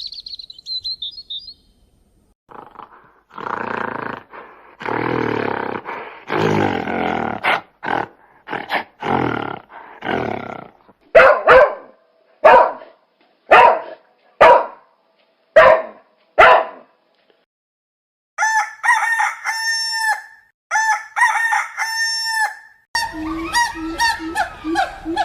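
A run of separate animal sound effects, one after another: brief bird chirping at the start, then several different animal calls in turn. First a stretch of rough, noisy calls, then a row of single calls about a second apart, then higher calls that bend in pitch, and a new rhythmic call starting near the end.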